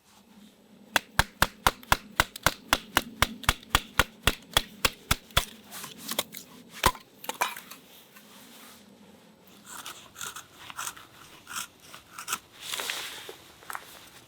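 Firewood being split: a quick, even run of sharp knocks, about four to five a second for several seconds, then a few scattered knocks and crunching, splintering sounds as the wood breaks apart.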